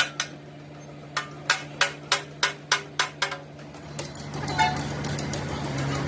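A hammer striking steel in quick succession, about three sharp ringing blows a second, over a steady low hum.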